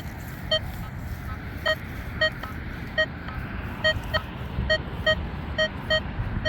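Metal detector sounding short, same-pitched beeps again and again at uneven intervals, about one to two a second, over wind rumbling on the microphone.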